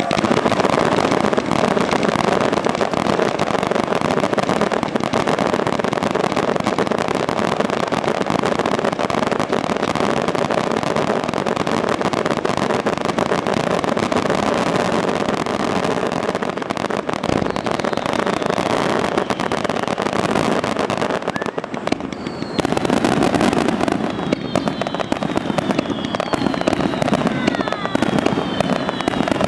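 Fireworks display: a dense, continuous run of crackling and bangs from bursting shells. About three-quarters of the way through there is a brief lull, and then whistling shells follow with several high whistles falling in pitch over the crackle.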